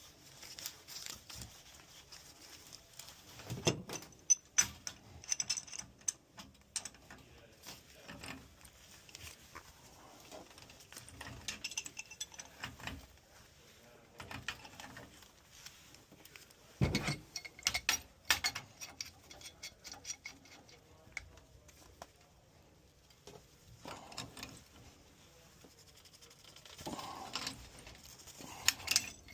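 Hand tools and metal gas pipe fittings being handled while a gas pressure regulator is plumbed into a furnace supply line: scattered metal clinks, clicks and knocks, with a few louder knocks spread through.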